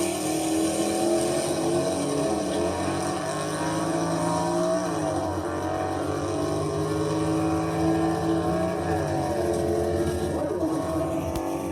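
A car engine running, its pitch dipping and rising a few times as it revs.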